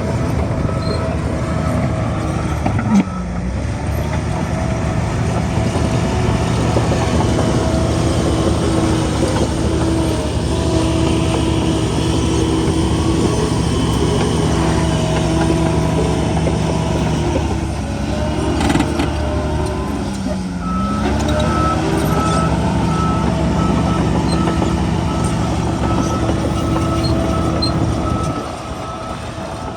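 Bulldozer's diesel engine running hard, its pitch dipping briefly twice as the load changes. A reversing alarm beeps steadily through the second half.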